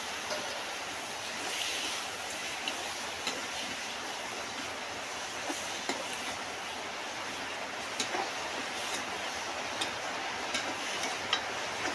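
Raw chicken pieces sizzling in hot oil and masala in a steel kadhai, a steady hiss, with a ladle clicking against the pan now and then as they are stirred.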